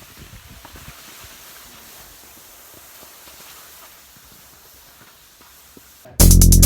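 Steady outdoor hiss with a few faint ticks. About six seconds in, loud electronic music with a steady beat cuts in abruptly.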